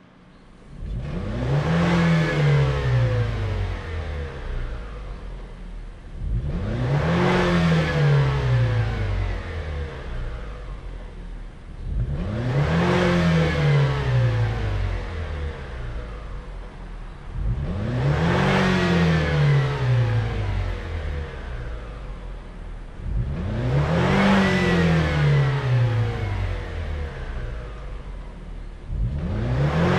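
Toyota Harrier ASU60W's 2.0-litre turbocharged four-cylinder engine through a BLITZ NUR-SPEC VSR stainless steel aftermarket exhaust, revved five times. Each rev climbs quickly in pitch and then falls back.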